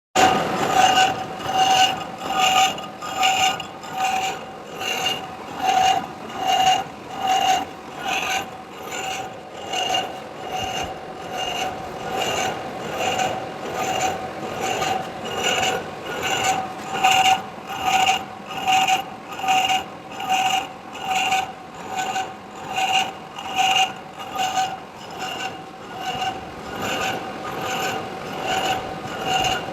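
Boring tool cutting metal in a lathe: a scraping cut with a ringing squeal that pulses about once every 0.8 seconds, steady throughout.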